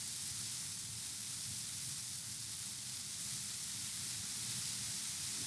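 Steady hiss of background noise, even throughout, with no other sound standing out.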